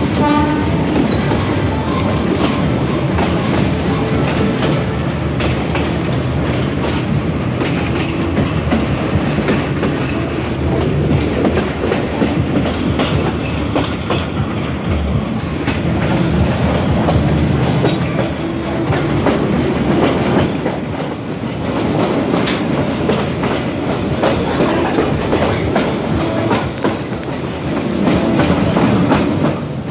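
Train hauled by a GE U8B-900 diesel locomotive, heard from on board as it runs along the track: a steady rumble with the clickety-clack of wheels clicking over rail joints.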